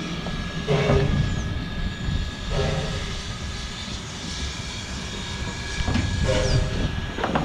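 Mary Valley Rattler train running with a steady low rumble, with faint voices in the background.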